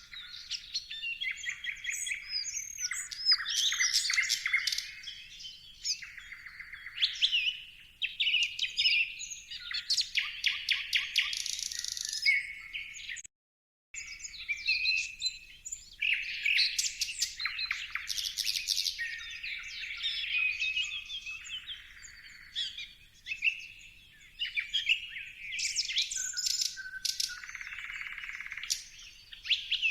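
Many birds chirping and calling at once, a dense chorus of quick chirps, trills and sweeping whistles. It drops out to silence for about half a second roughly halfway through.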